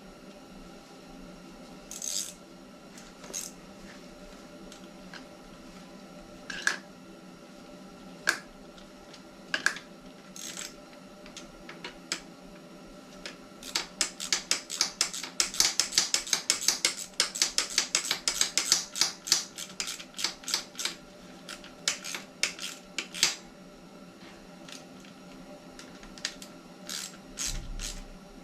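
A few scattered metal clicks and taps, then a ratchet wrench clicking rapidly for about ten seconds while it drives in the cover bolts.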